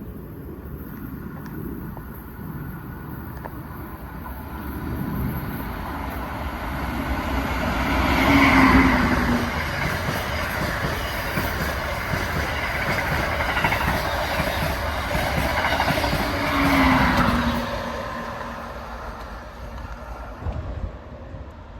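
Amtrak trains led by an ACS-64 electric locomotive passing at speed. The rumble builds and peaks twice, about eight seconds apart, with a brief falling tone at each peak, then fades away.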